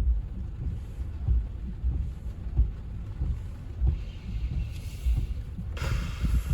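Car cabin noise while driving on wet city streets in the rain: a steady low road rumble with regular low thumps about every two-thirds of a second, and a rushing hiss that swells near the end.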